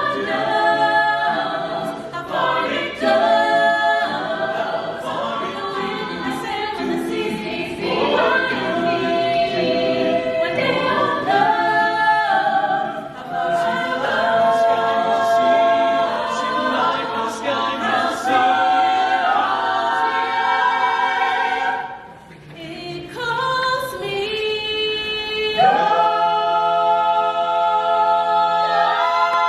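A cappella vocal ensemble singing in close harmony, with no instruments. The singing dips briefly about two-thirds of the way through, then swells into a long held chord near the end.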